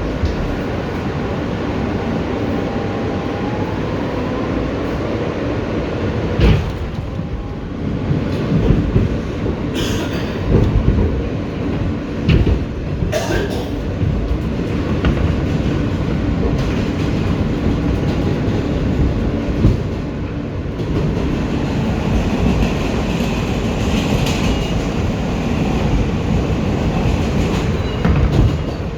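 Interior of an R160B Siemens subway car running at speed between stations. A steady rumble of steel wheels on rail, with a few sharp clacks as the wheels cross rail joints.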